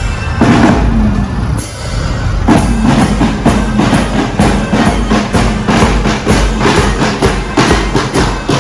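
School band's drums playing a steady marching beat, about three to four strokes a second, with other band instruments underneath.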